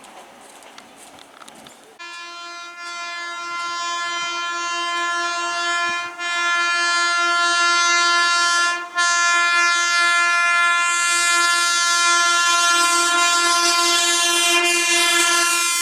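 Indian Railways train horn sounding one long, steady, loud blast as a fast train approaches, beginning about two seconds in and briefly broken twice. The train's running noise builds up under it toward the end.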